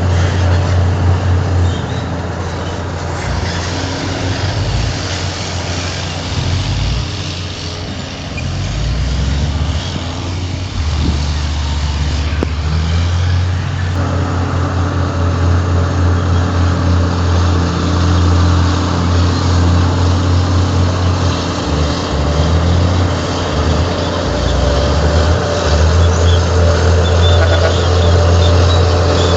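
Heavy diesel engine of earthmoving machinery running under working load. Its low drone shifts up and down in steps and grows fuller and louder about halfway through.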